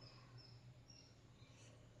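Near silence: a few faint, short high-pitched bird chirps over a low steady hum.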